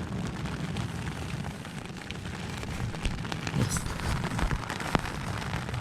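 Heavy rain falling in a steady hiss, with many sharp taps of individual drops and a few dull thumps in the second half.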